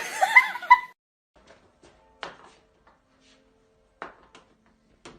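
A cat meowing in reply, one wavering, pitch-sliding call lasting about a second, followed by three faint knocks.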